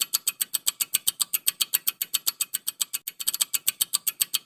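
Quiz timer ticking sound effect: rapid, even, sharp ticks, about eight a second, counting down the thinking time before the answer.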